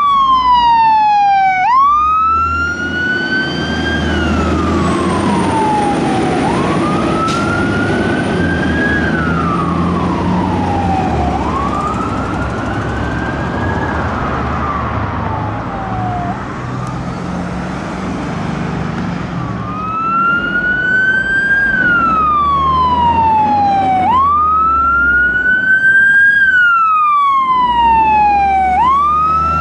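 Fire apparatus siren on a wail, each cycle sweeping up quickly and falling more slowly over about four to five seconds, over the low rumble of the truck's engine. The siren grows fainter for a few seconds in the middle, then comes back louder.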